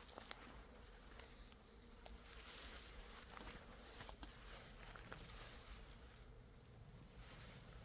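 Faint steady buzzing of bees, with a few soft ticks now and then.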